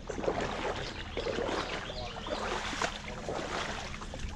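Lake water sloshing and splashing irregularly as people move through it, with faint voices in the background.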